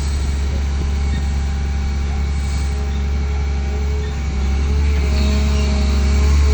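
An engine running steadily with a deep, even hum, getting a little louder about four seconds in.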